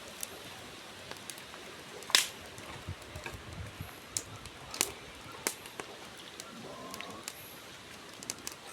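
Wood campfire crackling, with sharp pops: the loudest about two seconds in, more around five seconds in. The popping is put down to sap heating in pockets in the wood and bursting it.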